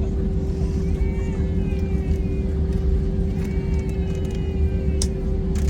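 Airliner cabin noise after landing: a steady low rumble of engines and airflow with a constant hum over it. Two faint clicks come near the end.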